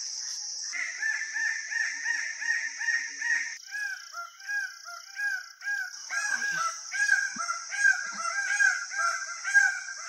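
Red birds-of-paradise calling: quick series of repeated loud notes, starting about a second in, over a steady high-pitched drone.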